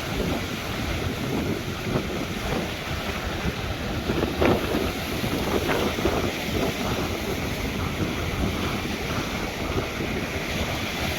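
Strong wind buffeting the microphone over the steady rush of ocean surf, with a brief louder surge about four and a half seconds in.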